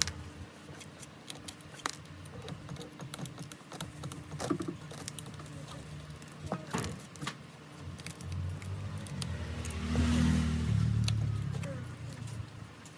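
Scattered light clicks and taps of small metal repair tools handled on a phone, over a low rumble that swells from about eight seconds in and eases off near the end.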